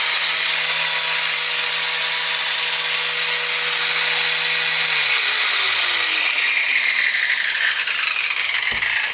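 Electric grinder grinding a steel blade, with a steady motor hum and a high grinding hiss. About five seconds in it is switched off and winds down, its pitch falling as the hiss fades.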